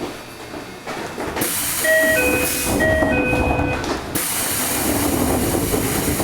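Cabin of a Toei 5300 series train stopped at a station: a pneumatic door mechanism hisses in two bursts, and a two-tone chime sounds twice.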